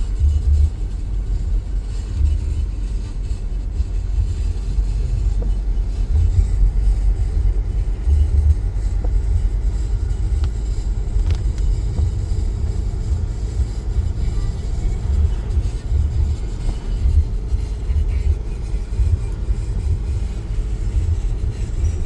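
Storm wind buffeting the microphone: a continuous low rumble that swells and drops in irregular gusts.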